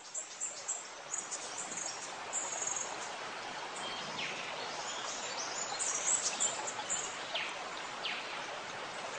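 Birds chirping with many short, high-pitched calls and a few downward-sliding notes, over a steady background hiss.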